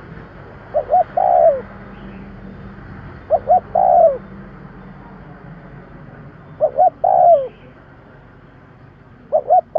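Spotted dove cooing: a repeated phrase of two short coos followed by a longer coo that falls in pitch at the end, given four times about every three seconds, with the last phrase running past the end.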